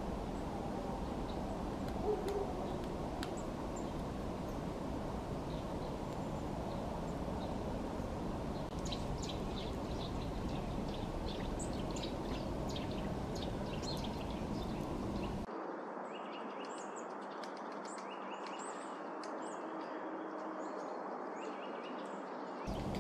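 Birds giving many short, high chirping calls over a steady low outdoor background noise. The calls become more frequent about a third of the way in. The low background noise cuts out suddenly about two-thirds through and returns just before the end.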